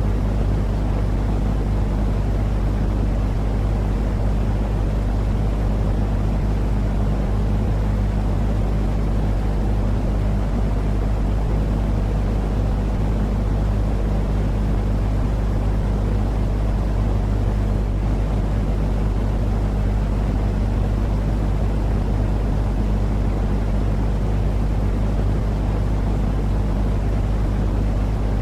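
Continuous white-noise sleep track for babies: a steady, unchanging low rumbling noise with a constant hum underneath.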